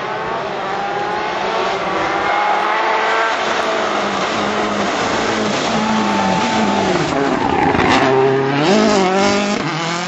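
Rally car engine revving hard through a hairpin, its pitch climbing and dropping repeatedly with throttle and gear changes, over a hiss of tyre noise from the drift. It is loudest near the end, with a quick rise and fall in pitch.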